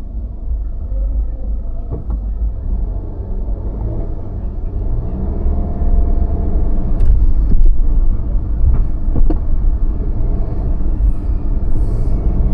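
A car driving slowly through city streets: a steady low engine and road rumble that grows louder about halfway through, with a few short clicks or knocks.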